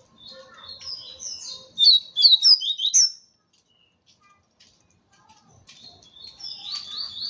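A papa-capim seedeater sings a fast, high twittering phrase of quick chirps. It pauses for about two seconds, then starts singing again near the end.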